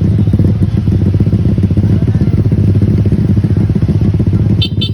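Motorcycle engine running steadily close by, in stop-and-go traffic on a mountain trail. Near the end there is a short, high-pitched double beep.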